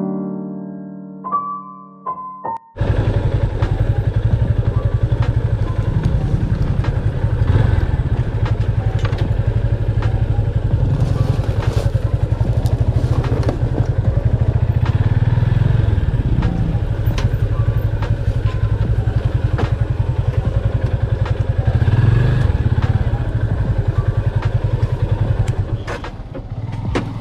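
A few seconds of piano music, then an abrupt cut to a motorcycle engine running steadily under load while riding, with a fast even pulsing from its firing and a few rattling knocks.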